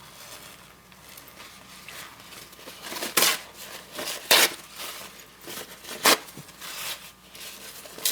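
A series of short, scratchy rustles from painting materials being handled at the work surface, four louder ones a second or two apart.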